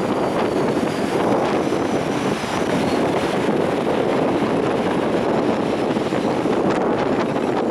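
Gale-force storm wind buffeting the microphone over the storm surf on the shore: a loud, steady rushing.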